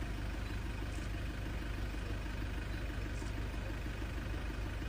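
A vehicle's engine idling steadily with a low, even hum.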